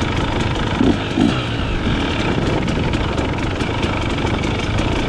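Dirt bike engine running steadily while the bike rides a desert trail, with two brief low sounds about a second in.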